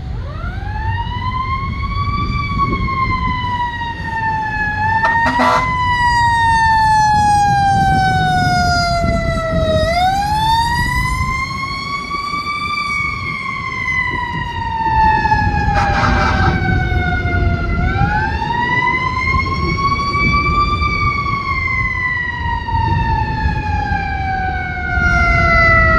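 Fire engine siren wailing: the pitch climbs quickly, then falls slowly for several seconds, three times over. Beneath it is the truck's low rumble, and short horn blasts cut in at about five seconds and again around sixteen seconds.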